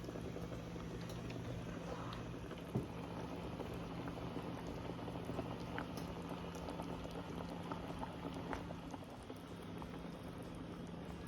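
Chicken curry bubbling as it simmers in a pot, with small pops and crackles over a steady low hum. There is one sharp click about three seconds in.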